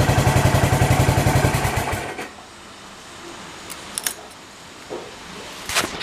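Yamaha SR400's air-cooled single-cylinder four-stroke engine idling with an even pulse, then shut off and dying away about 1.5 to 2 seconds in. A few light clicks and knocks follow.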